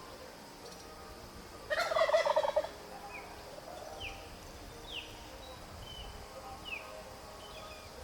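A male wild turkey gobbles once, a rapid rattling call lasting about a second, near the start. A few short, high, falling chirps from smaller birds follow.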